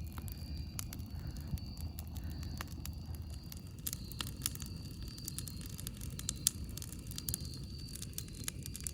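Campfire burning: irregular sharp crackles and pops from the burning wood over a steady low rumble, with one louder pop about six and a half seconds in.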